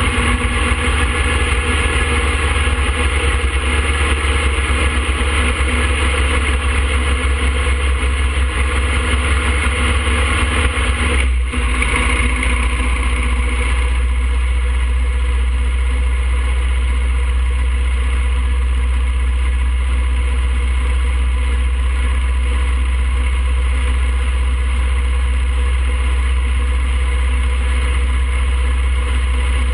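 A 2007 Harley-Davidson Fat Boy's air-cooled V-twin engine running steadily while riding, with road and wind noise. There is a brief dip about eleven seconds in, after which it runs a little smoother.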